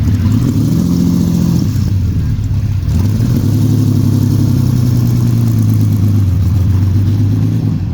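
Lamborghini Countach 5000S's 4.8-litre naturally aspirated V12 running under throttle in two long pulls, with a brief drop in the engine note about three seconds in.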